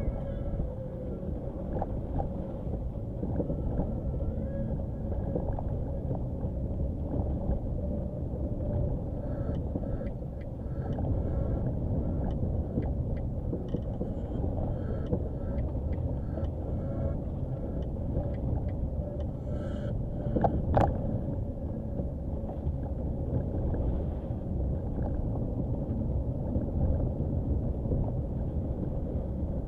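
Nissan Qashqai driving slowly over a rough dirt track: steady engine and tyre rumble with small rattles, and one sharp knock about two-thirds of the way through.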